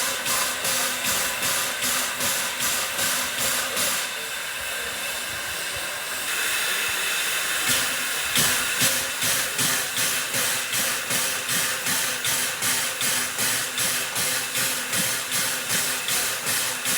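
Coal-fired steam locomotive working, its exhaust chuffing in a steady rhythm of about three hissing beats a second. About four seconds in the beats give way to a steadier hiss for a couple of seconds, then the chuffing resumes.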